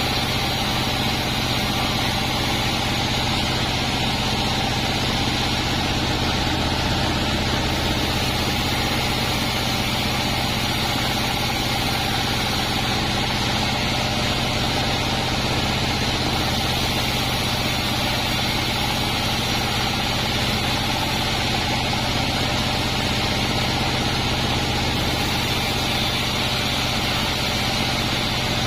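Band sawmill running steadily: a constant machine drone with a steady high hiss above it, holding the same pitch and level throughout.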